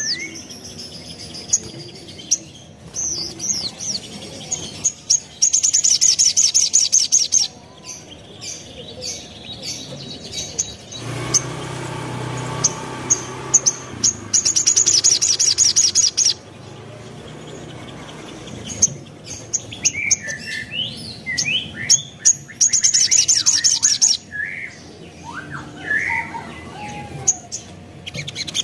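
Little spiderhunter (sogon, sogok ontong) singing: three fast, high rattling trills, each about two seconds long, with sharp chirps and short whistled glides between them.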